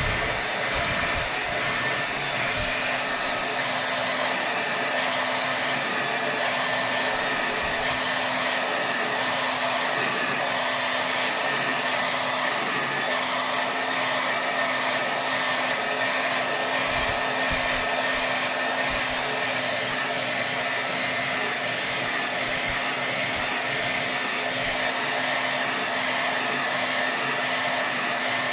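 Hair dryer blowing steadily on its highest setting: an even rush of air with a faint motor hum underneath.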